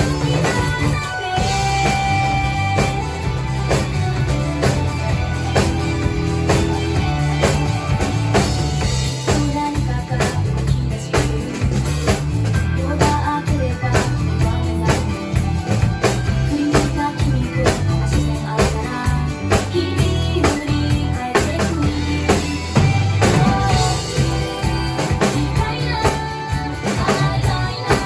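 Drum kit played along to a recorded pop-rock band track with a sung vocal, keeping a steady driving beat of bass drum and snare hits.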